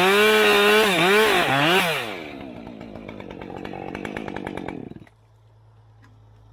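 Chainsaw engine revving, its pitch rising and falling under the throttle, then dropping to a lower, steadier running speed about two seconds in. It cuts off at about five seconds, leaving a faint low steady hum.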